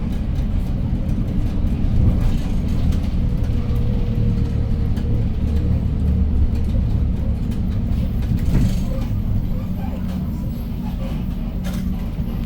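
Hyundai New Super Aerocity city bus with a CNG engine driving, heard from inside: a steady low engine drone with road noise. A short burst of noise comes about eight and a half seconds in.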